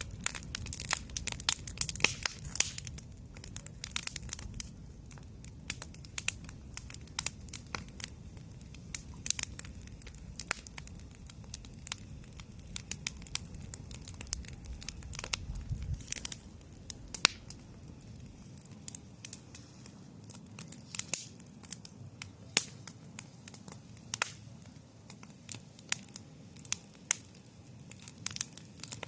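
Small campfire burning, the wood giving off frequent irregular crackles and sharp pops.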